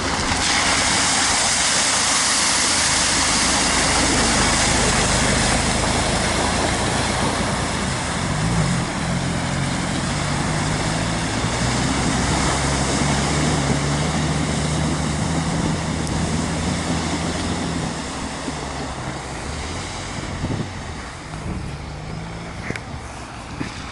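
Off-road vehicle's engine running under load with a loud rushing noise over it that eases after the first few seconds; the engine note holds steady through the middle and drops back near the end.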